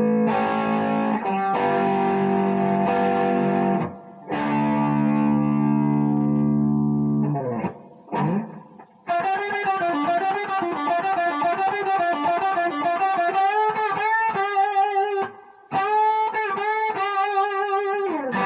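Distorted electric guitar playing a blues solo in D. Two chords each ring for a few seconds, then from about nine seconds in a single high note is held with wide vibrato and repeated bends.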